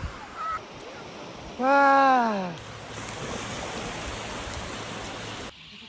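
Steady rushing noise of waves on a shore, with a person's loud drawn-out "wah" falling in pitch about two seconds in.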